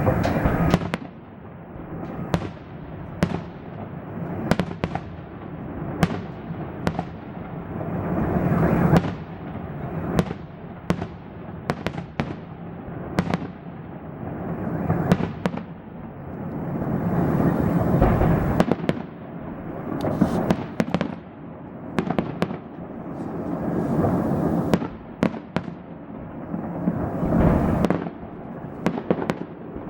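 Fireworks salute: many sharp bangs of bursting shells over a continuous low rumble of explosions and their echoes, swelling and easing every few seconds.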